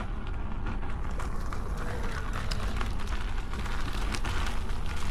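Electric unicycle riding over a dirt trail: steady wind rumble on the camera microphone, with scattered clicks and crunches from the tyre on the ground.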